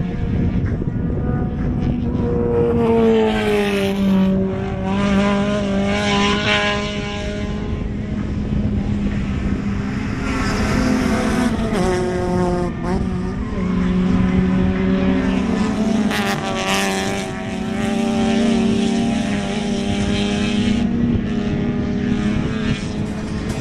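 Racing engines running hard on a circuit, their pitch sliding down about three seconds in and wavering around twelve seconds in as they shift and pass.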